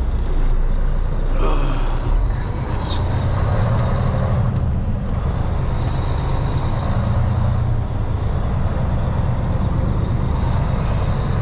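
Semi truck's diesel engine running steadily at low speed through a slow U-turn, with a short click about three seconds in.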